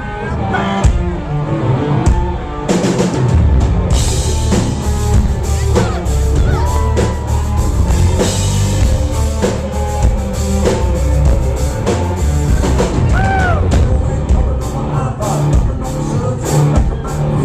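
Live country-rock band playing an instrumental intro, with drum kit and bass filling in about three seconds in and a steady beat after.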